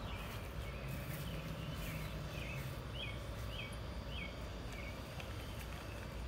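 Outdoor backyard ambience: a bird calls a row of four short, falling notes a little over half a second apart, over a steady background of outdoor noise.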